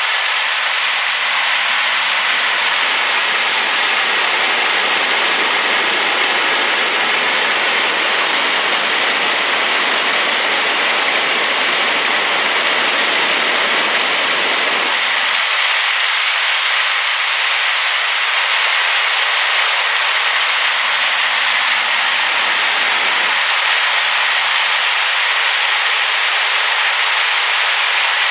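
Waterfall rushing in a steady, loud, hissing roar, running high with rainwater. Its low rumble drops away about halfway through, leaving mostly the higher hiss.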